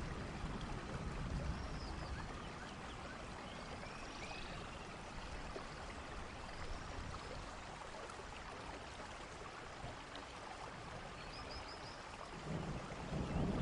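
Steady rain falling, with a low rumble of thunder dying away at the start and building again near the end. Faint high chirps come now and then.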